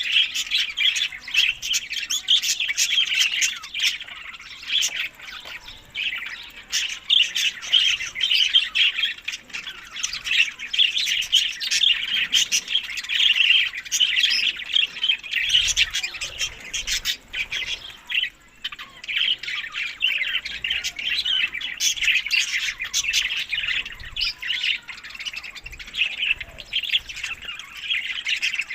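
A flock of budgerigars chattering, with continuous overlapping chirps, warbles and squawks.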